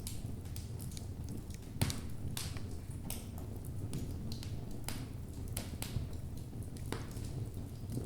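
Wood logs burning in a fireplace: a steady low rumble of flame with irregular sharp crackles and pops, one louder pop about two seconds in and another around six seconds.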